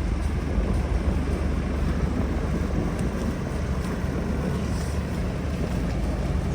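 Steady low outdoor rumble of city street ambience.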